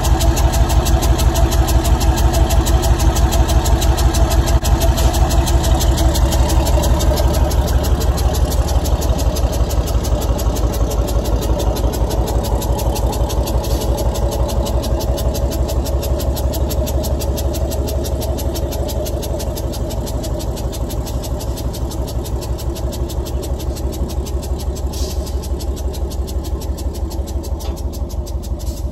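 Bedford TK truck engine running with its exhaust cut off, an even, rapid pulsing that slowly grows quieter. The engine has a blown head gasket with heavy blow-by.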